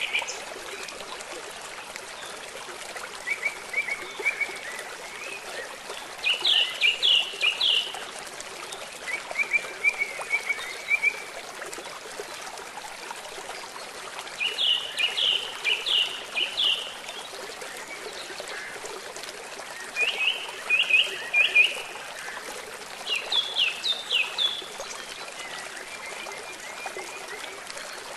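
Steady hiss of running water and rain. Over it, short bursts of rapid high chirping calls recur every few seconds, each burst a quick series of four to six notes.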